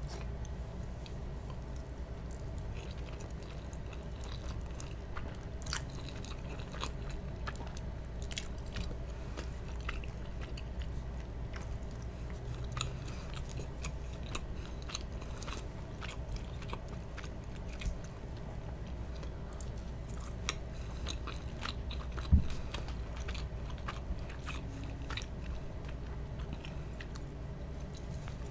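Close-miked chewing of spaghetti and meatballs: many small wet mouth clicks over a steady low hum. One louder knock comes about 22 seconds in.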